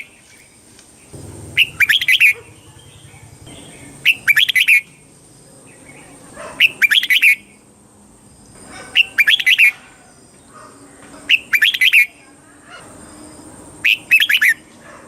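Red-whiskered bulbul singing short, rapid song phrases, six in all, one about every two and a half seconds.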